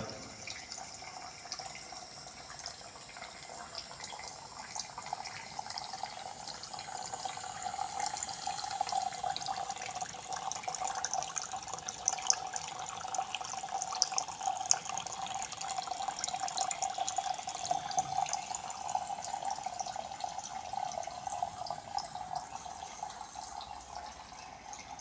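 Small water pump running with a steady whine while the water it moves splashes and trickles into a tank.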